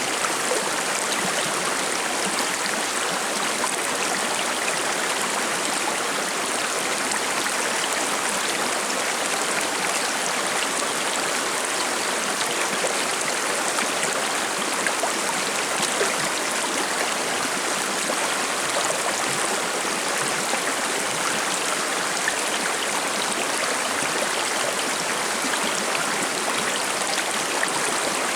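A shallow river babbling and splashing over rocks: a steady, even rush of water with fine trickling detail.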